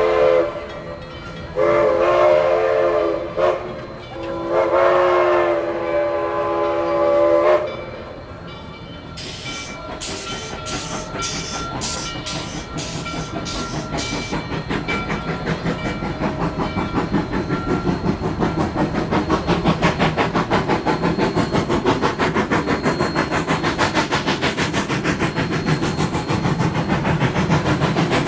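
Narrow-gauge steam locomotive's chime whistle blowing three times, a short blast and then two long ones, the signal to move off. A few seconds later sharp bursts of steam give way to exhaust chuffs that grow quicker and louder as the locomotive pulls away.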